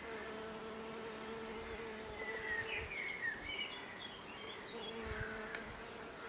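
Recorded nature sound of an insect buzzing steadily, with birds chirping over it, the chirps busiest about two to three seconds in.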